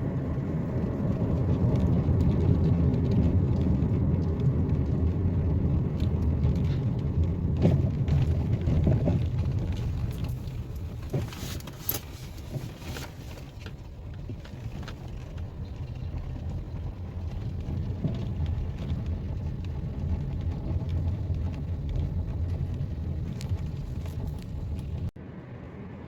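Car driving: a steady low rumble of engine and road noise, louder at first and easing off after about ten seconds, with a few light clicks around the middle.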